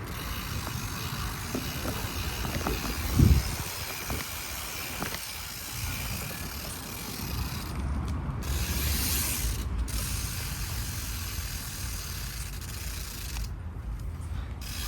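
BMX bike's rear hub freewheel ratcheting as the bike coasts, over a steady rolling rumble, with one knock about three seconds in.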